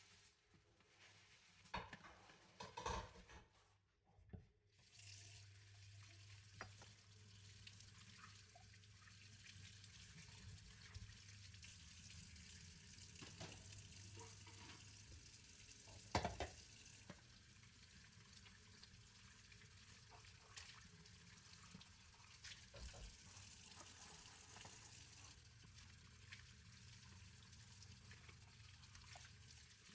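Kitchen tap running into a sink as a steady hiss that starts about five seconds in, after a few dish knocks. There is a sharp clatter of a dish midway through.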